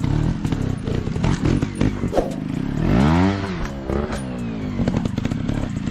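Dirt bike engine running, revving up and back down about three seconds in, with scattered clattering knocks.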